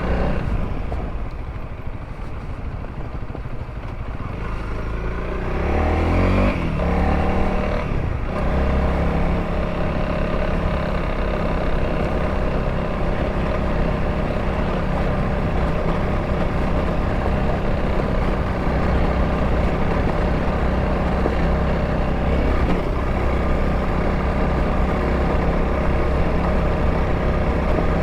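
Honda CRF300L dual-sport motorcycle's single-cylinder engine running while riding. Its pitch shifts up and down over the first several seconds as the revs change, then it holds a steady cruise.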